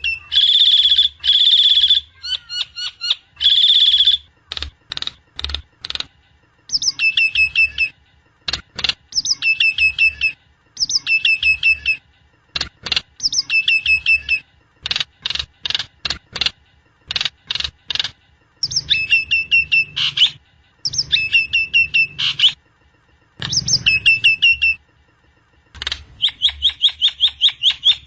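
Jalak Nias starling calling loudly in repeated phrases. Each phrase is a quick run of sharp notes stepping down in pitch. Near the start two long, harsh held notes stand out, and short single notes come in between the phrases.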